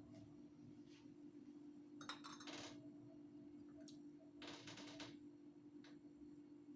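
Light kitchen handling sounds: a few scattered soft clicks and knocks, with two short clattering rustles, over a steady low hum.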